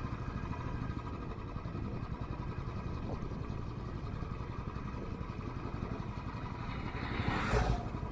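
Motorcycle engine running steadily while riding, with a brief rushing noise near the end.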